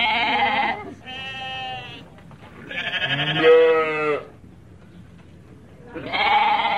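Sheep bleating: a series of wavering calls, each about a second long, with a longer one in the middle and another starting near the end.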